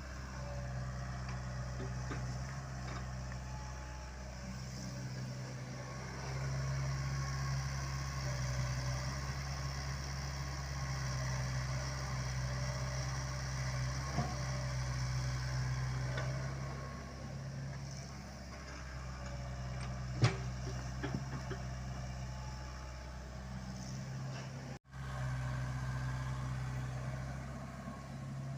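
Komatsu PC75UU mini excavator's diesel engine running steadily, its level rising and easing as it works, with one sharp clank about twenty seconds in.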